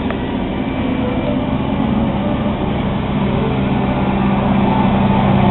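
Canal tour boat's engine running steadily with a low hum, growing a little louder toward the end.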